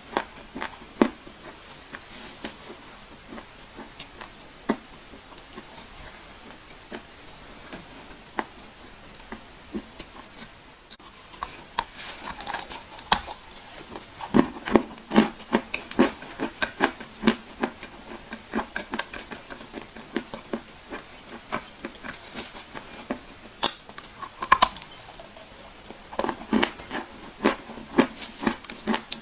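Clay being crushed by hand, crunching and crumbling in many sharp crackles: scattered at first, then much denser and louder through the second half.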